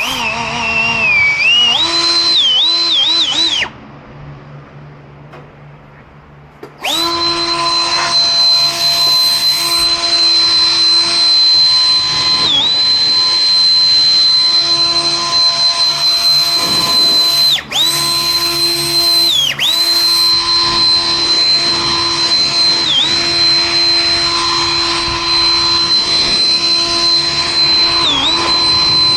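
Small electric power-tool motor whining at high speed: it spins up and runs briefly, stops, then starts again about seven seconds in and runs steadily, its pitch dipping for a moment several times as it is loaded.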